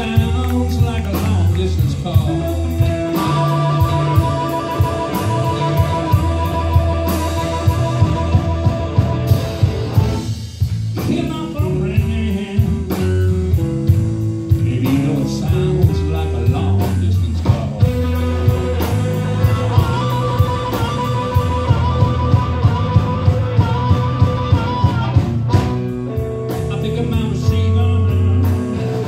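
Live blues band playing an instrumental passage: guitar lines with long held notes over bass and a steady drum beat.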